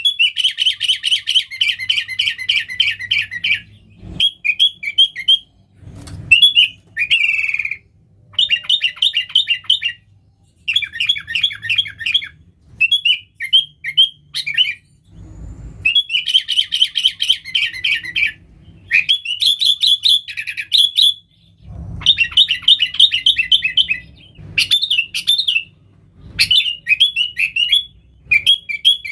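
Sooty-headed bulbul (kutilang) calling energetically in rapid chattering bursts of notes, phrase after phrase with short pauses between, with a few dull low thumps now and then.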